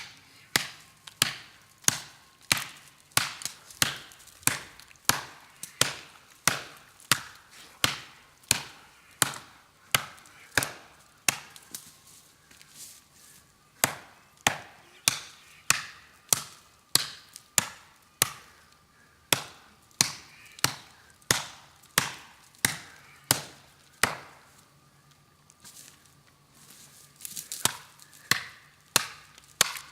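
Steel golok blade chopping into a tree trunk in steady repeated strokes, about one and a half strikes a second, with short pauses about twelve seconds in and again around twenty-five seconds.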